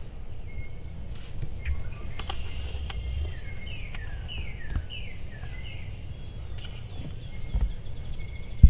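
Small birds singing: a run of about five quick falling chirps in the middle, then a fast high trill near the end, over a steady low rumble.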